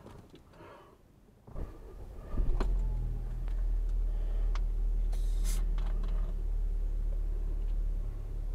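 Car engine starting about two seconds in, then idling with a steady low rumble, heard from inside the cabin; a few light clicks and a brief hiss about five seconds in.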